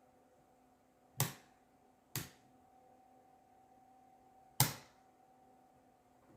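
Three sharp clicks or knocks, the first two about a second apart and the third about two and a half seconds later, over a faint steady electrical hum.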